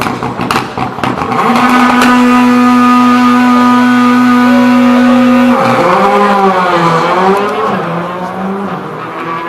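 Škoda Fabia R5 rally car's turbocharged four-cylinder engine at high revs, held at one steady pitch for about four seconds, then revs falling and rising again and again as it works through the slalom.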